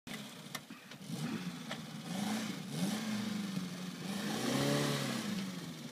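Suzuki Samurai's small carburetted four-cylinder engine revving up and down, its pitch rising and falling as it labours to pull the little 4x4 through soft sand, too weak for the job. A few light knocks come in the first two seconds.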